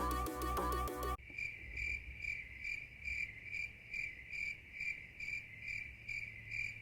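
Background music that cuts off about a second in, followed by an insect chirping steadily at about three chirps a second.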